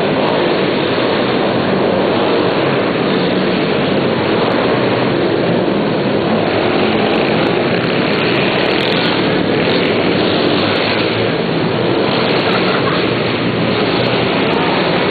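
Pit bike engines running hard, a loud, steady, noisy wash of motor sound with no single event standing out.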